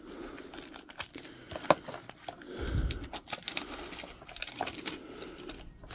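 Handling noise close to the microphone: rustling and crinkling with scattered small clicks, as packaging and objects are handled one-handed. There is a sharp click a little under two seconds in and a low bump just after it.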